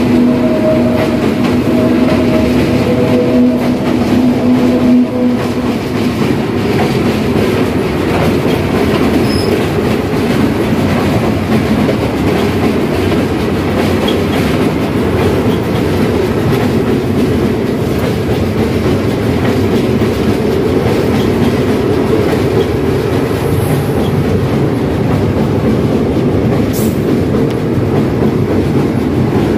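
A train crossing a riveted steel girder railway bridge, heard from underneath the deck: a loud, steady rumble and clatter of wheels on the rails overhead. A steady hum sounds over the first five seconds or so.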